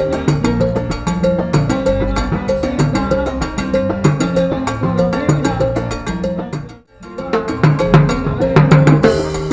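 Salsa band playing an instrumental passage over a busy percussion rhythm. The whole band stops abruptly about seven seconds in, then comes back in straight away.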